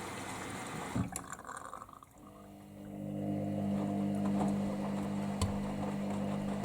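Hoover Dynamic Next washing machine drum tumbling in its rinse: the motor hum and sloshing water stop with a click about a second in, then after a short pause the motor starts again and builds back up to a steady hum.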